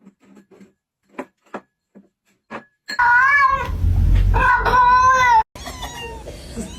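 A few faint clicks, then about three seconds in a cat meows loudly: two long, wavering calls, with quieter meows after them.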